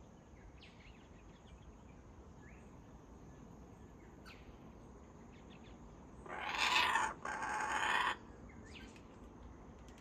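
Two loud, harsh bird calls about six seconds in, each nearly a second long and back to back, over a faint steady high insect drone with a few faint chirps.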